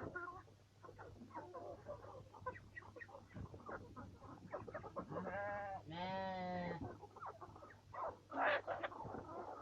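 A flock of backyard poultry clucking and peeping, with two long drawn-out bleat-like calls about five and six seconds in and a short loud squawk near the end.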